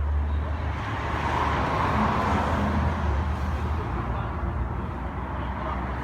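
Motor vehicle noise: a steady low engine hum under road or traffic noise that swells for a couple of seconds about a second in.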